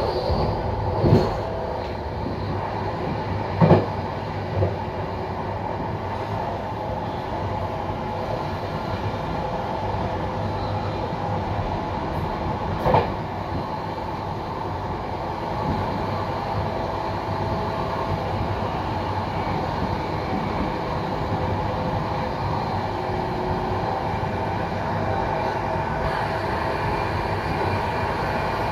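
Electric intercity passenger train rolling on the track, heard from inside the train: a steady rumble with a few sharp clacks in the first half as the wheels run over the station's points, then a slightly louder, even running noise.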